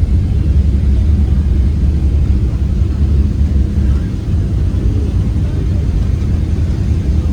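Steady low rumble inside the cabin of a Boeing 777-300ER airliner.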